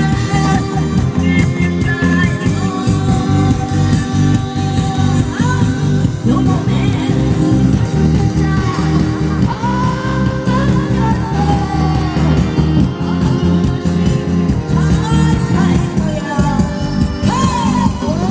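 A woman singing a Korean minyo-style song over loud accompaniment with a steady drum beat, her voice sliding between notes in the phrases heard about halfway through and near the end.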